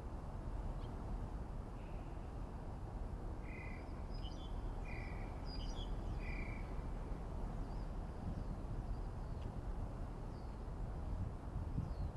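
Birds calling: three short, even notes about a second and a half apart, with higher chirps around them, over a steady low rumble.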